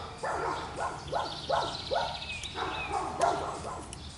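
Dogs barking, a run of short barks at about two to three a second.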